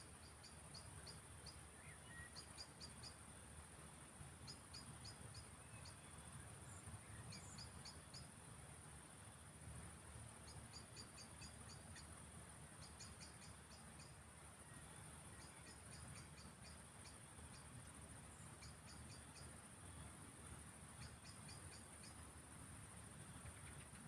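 Faint field crickets chirping in short quick bursts of a few pulses, repeating every second or two, over a steady high insect hiss and a low, even rumble.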